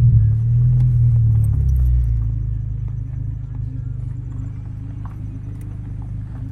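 2013 Honda Civic Si's 2.4-litre four-cylinder engine running through an Invidia N1 catback exhaust, a low drone that is loudest for about the first two seconds, then drops to a quieter steady hum.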